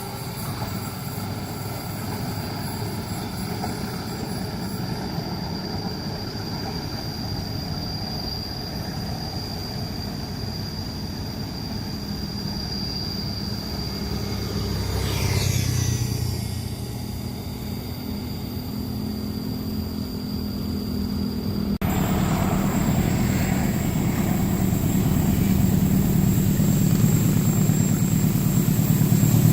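Steady low engine rumble with a thin high steady whine above it. Something passes about halfway through, swelling and fading. The sound changes abruptly a few seconds later and grows louder toward the end.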